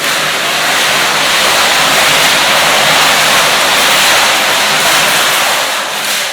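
Fireworks going off: a loud, dense, steady rush of hissing noise that starts abruptly and holds for about six seconds before dropping away at the end.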